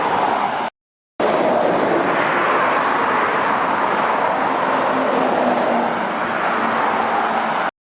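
Dual-carriageway traffic: the steady tyre and engine noise of trucks and cars going by, with a faint lower engine hum from a passing vehicle in the middle. The sound drops out completely for half a second about a second in and again near the end.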